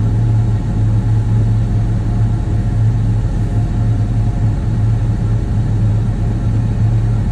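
John Deere 7630 tractor's diesel engine running steadily with an even low drone.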